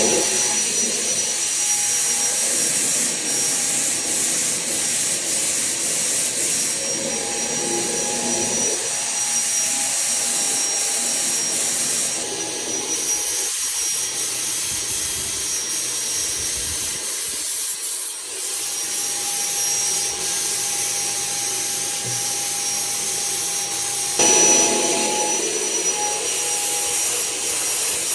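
HVLP turbine spray rig running steadily for a touch-up top coat on a bathtub, a constant high whine over a rushing air hiss.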